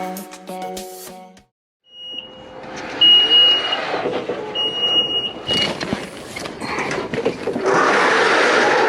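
Background music cuts off about a second and a half in. Then vehicle noise with a high electronic beep sounding three times, each about as long as the gap after it, followed near the end by a loud steady hiss lasting about two seconds.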